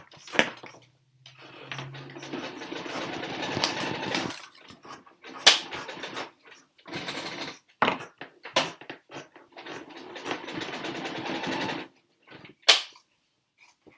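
A small machine running in two bursts of a few seconds each, with a dense rattle and a low hum at the start of the first. Sharp clicks and knocks fall between the bursts.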